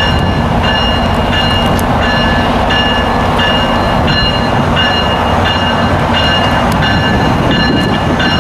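A train passing close by: a steady, loud rumble and rattle of wheels on rail. Over it a bell-like ringing repeats about one and a half times a second.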